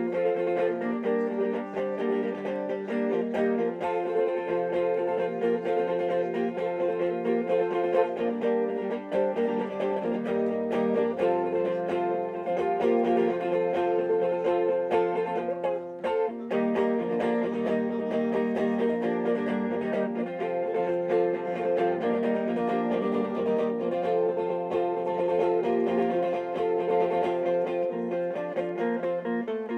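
Acoustic guitar music played live: plucked notes and strummed chords in an instrumental passage, with a short break in the sound about halfway through.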